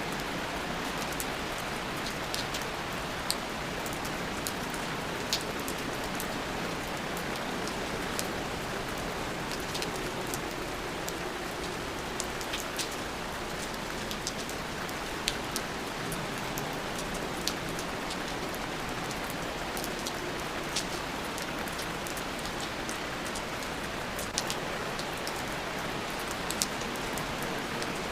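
Steady rain falling, a constant hiss with many individual drops ticking sharply on a surface throughout.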